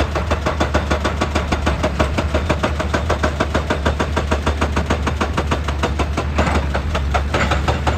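Excavator at work: its diesel engine running under a steady low hum, with a rapid, even beat of pulses.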